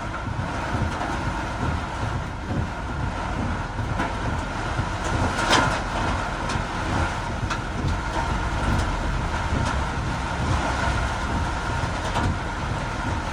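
A vehicle driving on a road in heavy rain: a steady rumble of tyres and rain, with scattered sharp taps.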